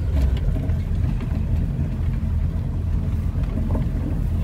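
Maruti Gypsy's engine running steadily as the jeep is driven, heard from inside the cabin, with a few light clicks and rattles over the low rumble.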